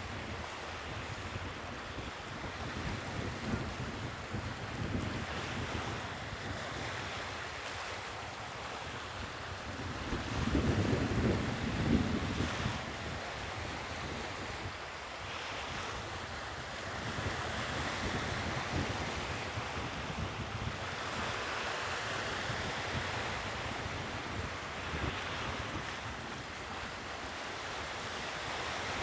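Sea waves washing and breaking on the shore, a steady surf hiss that swells and eases, with wind buffeting the microphone in a louder low rumble about a third of the way in.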